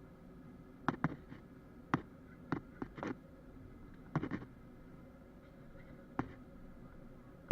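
Irregular sharp clicks and rattles from an action camera loose in its suction-mounted case, over the steady hum of an Airbus A321 cabin.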